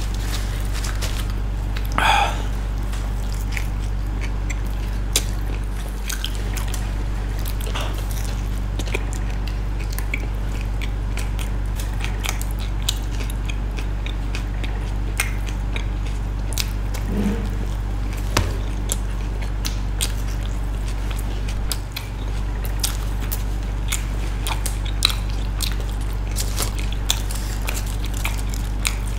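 Close-miked eating of pizza: biting and chewing with many small wet mouth clicks scattered through. A steady low hum runs underneath.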